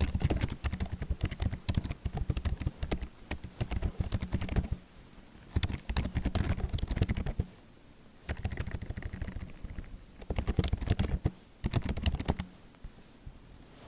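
Fast typing on a computer keyboard, keys clicking in rapid bursts of a few seconds separated by short pauses, stopping near the end.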